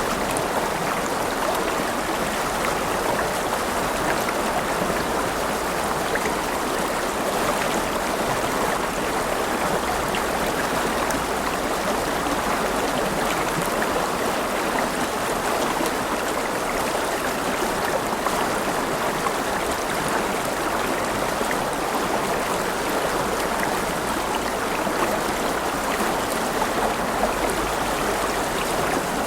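A river's flowing water rushing and burbling steadily.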